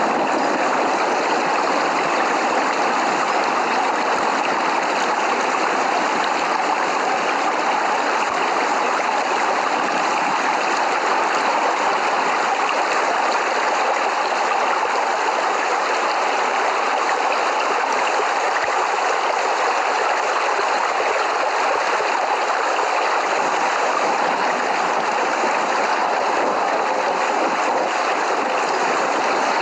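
Rain falling steadily: an even, unbroken hiss, with no thunder.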